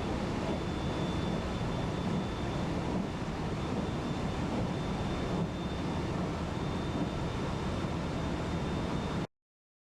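Cabin running noise of a JR West 223 series electric multiple unit under way: a steady rumble of wheels on the rails with a faint, steady high tone above it. It cuts off suddenly about nine seconds in.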